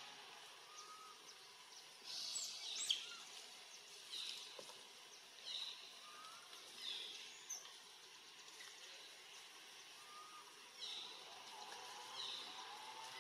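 A bird calling repeatedly and faintly: short, high chirps, each falling in pitch, about every one to two seconds, over a low outdoor hiss.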